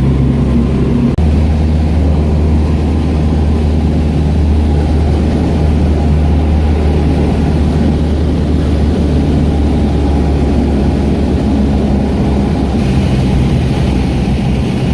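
Small airplane's piston engine and propeller droning steadily, with a brief dip about a second in.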